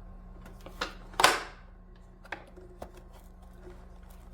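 Vacuum parts and packaging being handled during an unboxing: a few light knocks and clicks, with one louder rustle about a second in.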